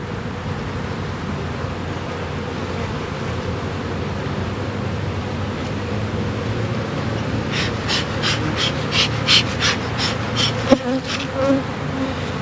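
Honeybees buzzing steadily around the hives during orientation flights. Over the last few seconds a quick run of about a dozen short, high scratchy strokes, roughly four a second, sounds over the buzz.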